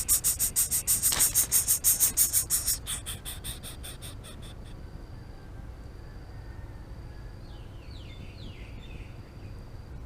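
An insect chirring in rapid, even pulses, about seven a second and very high-pitched, loud at first and fading out after about four seconds. A faint steady high insect tone continues after it, with a few faint short calls near the end.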